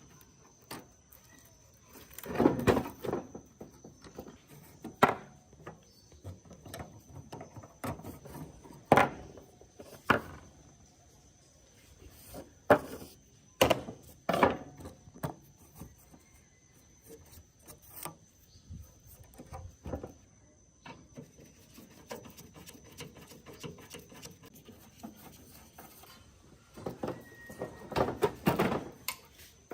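Irregular knocks, clicks and rubbing from hand work on the parts of a gas water heater, with louder clusters of knocks about two and a half seconds in, near the middle and near the end, over a faint steady high whine.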